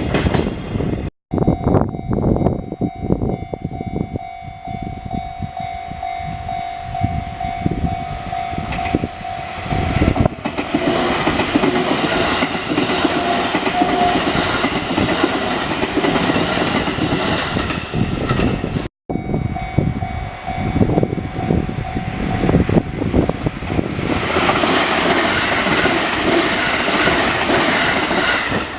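Trains passing over a railway level crossing, wheels clattering over the rail joints, with a steady high tone running through parts of it. The sound breaks off abruptly twice, about a second in and again about two-thirds through.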